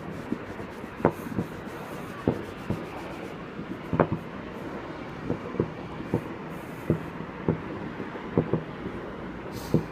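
Fireworks going off around the city: irregular sharp pops and clicks, one or two a second, over a steady background hiss.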